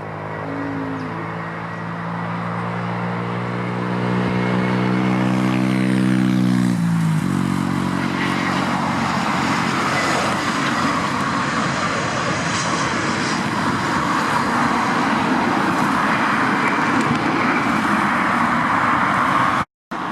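Airbus A320 jet airliner on landing approach passing close by: a steady multi-tone engine hum that drops sharply in pitch about seven seconds in as it goes past, then a loud, steady rush of jet noise that cuts off suddenly near the end.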